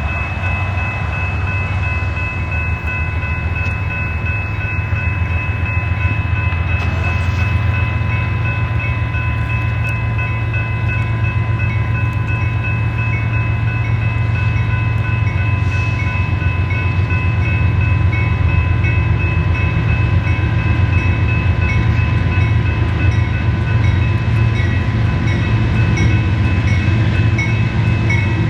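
A train passing with a steady heavy low rumble and several steady high tones held throughout. In the last third a quick, regular repeating ding joins in.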